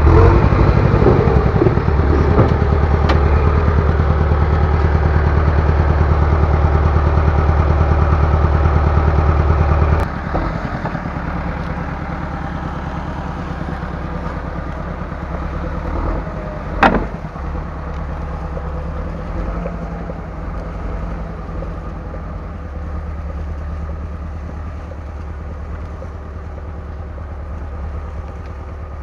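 Heavy equipment engine running steadily at a higher throttle, then dropping to a lower, quieter run about ten seconds in. A single sharp clank sounds a little past halfway.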